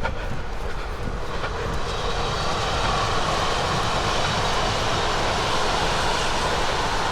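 A train passing: a steady rushing rumble that builds about a second in and then holds, over low wind buffeting on the microphone.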